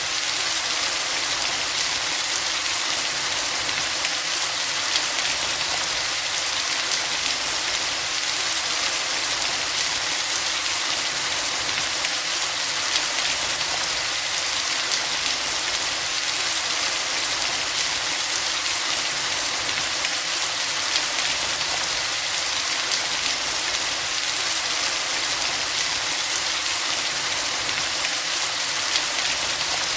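Steady, even rain, a constant hiss with scattered faint drop ticks.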